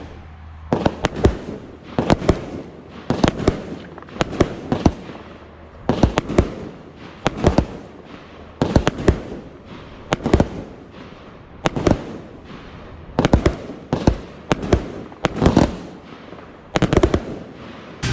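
Consumer (Class C) firework cake firing, its sharp reports coming in quick pairs about once a second, each followed by a short hiss.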